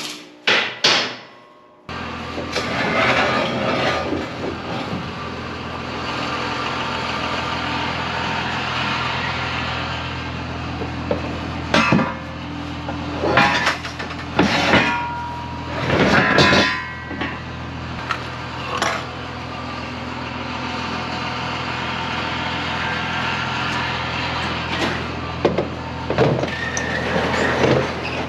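An engine idling steadily, starting about two seconds in, with loud metal clanks and knocks coming at intervals over it, several close together near the middle and again near the end.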